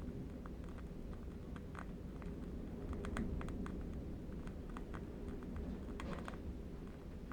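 Burning candle wick crackling: faint, irregular little clicks and pops over a steady, low wind rumble.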